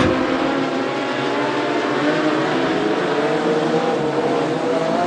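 Several modified sedan race cars' engines running hard at racing speed on a dirt speedway, a steady layered mix of engine notes at an even level.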